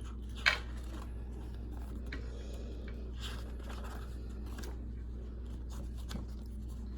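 Quiet handling of a paper picture book, likely a page being turned: a sharp click about half a second in, then faint scraping and rustling over a steady low hum.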